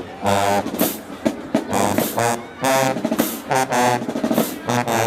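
Marching band playing: brass sounding short, punchy chords over snare and bass drums.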